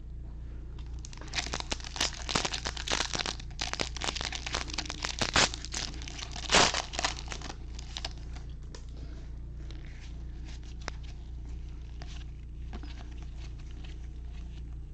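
Foil wrapper of a Bowman baseball card pack being torn open and crinkled: a dense run of crackling for several seconds, with the sharpest rip about six and a half seconds in, then only faint light ticks.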